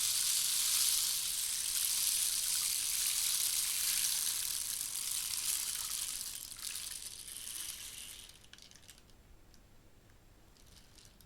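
Handmade rainstick pouring its fill in a rushing, rain-like hiss. The hiss fades and dies out about eight seconds in, leaving a few faint last trickles of grains.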